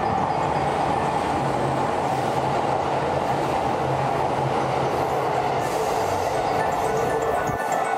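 A JR West 221 series electric train passing close at speed: a steady rush of wheels on rail with a low motor hum. The low rumble drops away suddenly near the end.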